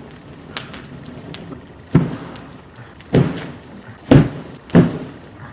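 Four loud, sharp bangs, the first about two seconds in and the last three closer together, with fainter pops and crackle between them.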